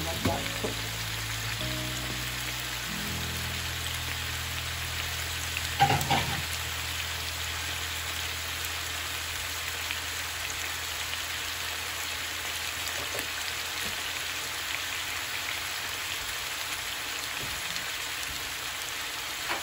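Chicken pieces and mushrooms sizzling steadily in a nonstick frying pan, with a sharp knock about six seconds in.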